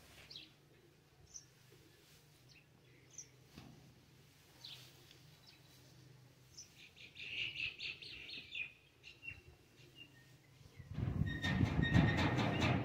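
Birds chirping in short, scattered calls, with a burst of twittering about seven seconds in. Near the end a loud rustling, scraping noise takes over.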